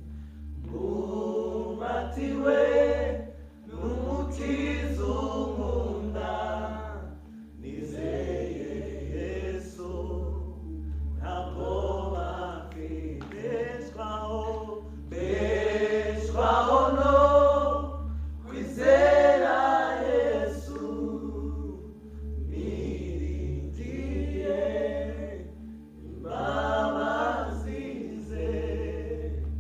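Voices singing a chant-like worship song in a church service, in phrases a second or two long, loudest about halfway through, over a steady low hum.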